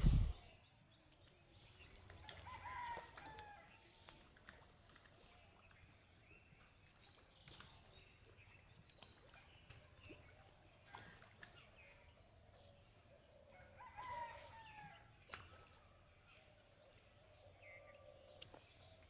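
Rooster crowing twice, once about two seconds in and again about fourteen seconds in, each crow a falling call of about a second and a half, with faint scattered clicks and a sharp knock at the very start.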